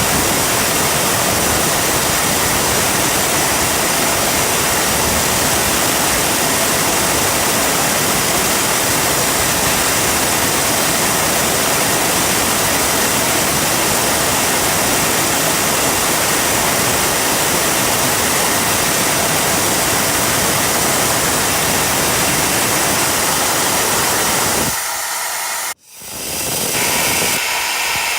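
Turbocharger-based jet engine running at a steady speed, a loud, even rushing roar. Near the end it drops a little, breaks off for an instant, then comes back with a harsher, higher-edged tone.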